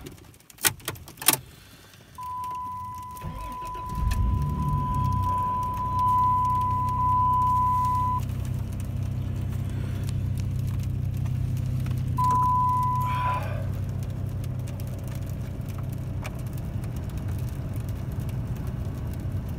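Truck engine cranking and catching about four seconds in, then idling steadily. It follows a couple of sharp clicks early on, and a steady dashboard warning tone sounds for several seconds, then again briefly later.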